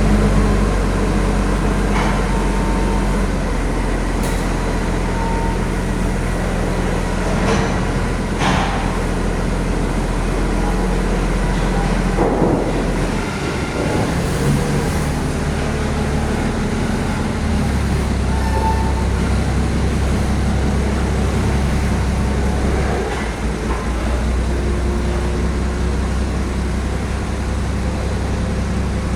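Heavy truck engine running with a steady low drone, its note dropping and shifting a few times, with a few short knocks early on.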